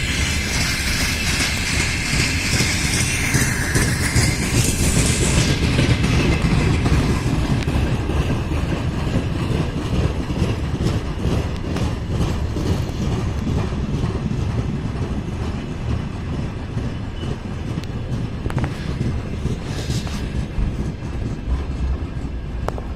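Freight train rolling along the rails with a steady heavy rumble and clatter of wagons. A high-pitched squeal rides over it for the first five seconds or so, then fades.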